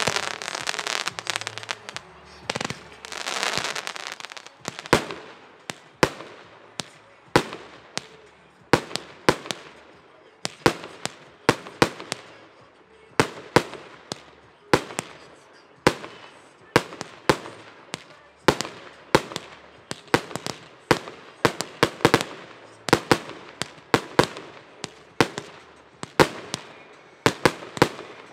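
Weco consumer fireworks going off: dense crackling for the first few seconds, then a steady run of sharp bangs, nearly two a second, each with a short fading tail.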